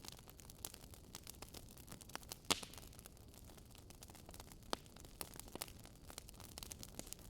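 Wood fire in a fireplace crackling, with irregular clicks and pops over a faint steady hiss; the sharpest pop comes about two and a half seconds in.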